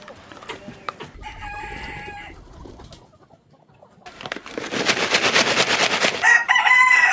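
Chickens clucking and squawking: a pitched call about a second in, then a loud run of rapid clucks from about four seconds in, ending in a held high call that cuts off abruptly.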